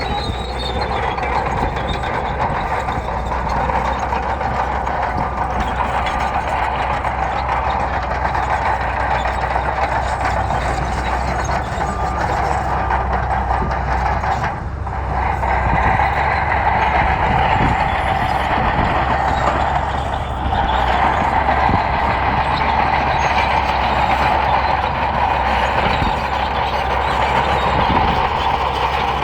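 Heavy diesel earthmoving machinery running steadily with a constant engine sound and a low rumble, dipping briefly about halfway through.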